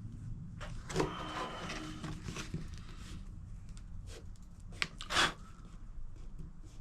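Intermittent scratchy rubbing and scrubbing strokes on a plastic dirt bike side panel being cleaned by hand, the loudest near the end, over a steady low hum.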